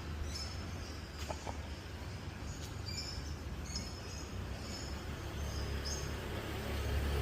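Steady low rumble of many motorbike engines in dense traffic, with short high bird chirps repeating over it; the traffic noise swells a little near the end.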